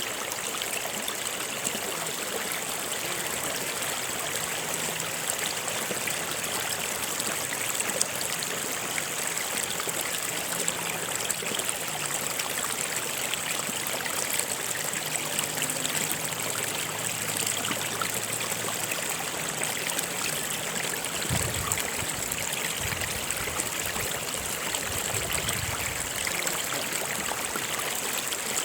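A river or stream flowing over rocks, a steady rushing and trickling of water, with a few faint low rumbles about three-quarters of the way through.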